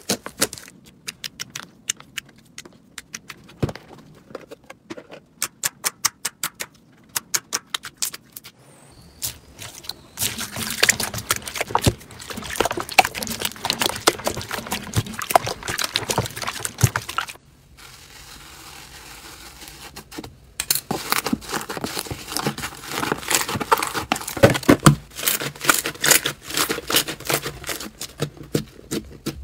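Slime being squeezed and poked by hand across several short clips, making runs of sharp clicking and crackling pops with denser, noisier crackling in between.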